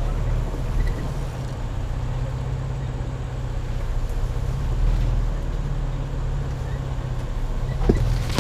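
A 4x4 truck driving off road: a steady low engine and drivetrain rumble with tyre noise on the trail, and a couple of light knocks near the end.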